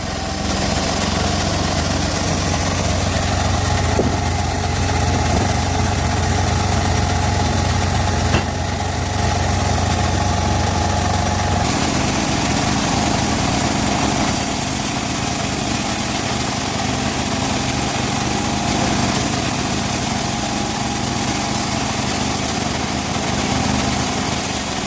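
Engine-driven band sawmill running steadily while sawing teak, its low drone changing about twelve seconds in.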